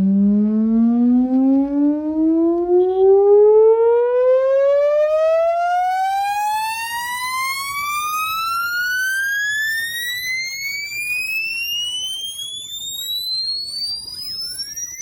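Test-tone frequency sweep for a sound-system check: a single tone with overtones rising steadily in pitch from a low hum to a high whistle.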